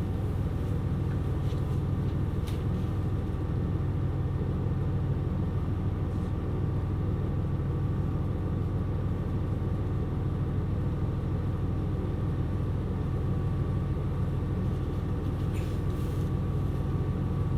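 KiHa 127 series diesel railcar under way: a steady low rumble of engine and running gear with even tones from the drivetrain, holding constant throughout, and a few faint clicks.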